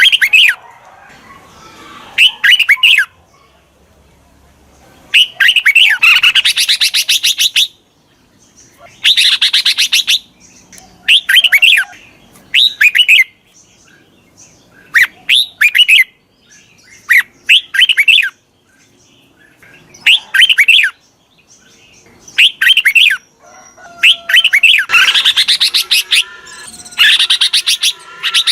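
Red-whiskered bulbul song: short phrases of a few bright chirping notes every second or two, broken by longer bursts of rapid chattering notes. It is played as a decoy call to stir captive bulbuls into song and draw wild ones in.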